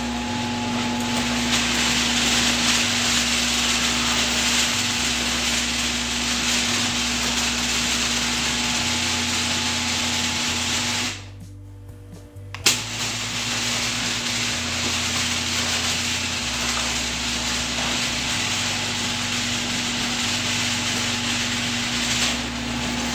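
Garage door opener running a sectional garage door on old, worn steel rollers: a steady motor hum under loud, even roller and track noise. It stops about eleven seconds in. After a click about a second and a half later, it runs again.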